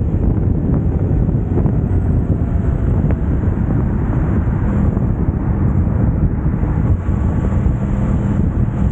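Yamaha YZF-R1 crossplane inline-four running steadily through an Akrapovic exhaust while the bike is ridden, with heavy wind noise on the microphone.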